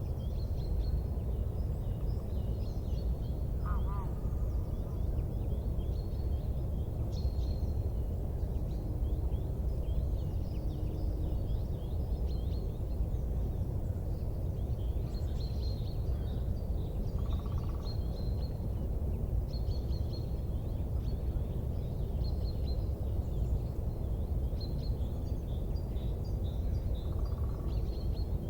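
Wood fire burning with a steady low roar and few sharp crackles, over many faint, high, short chirps.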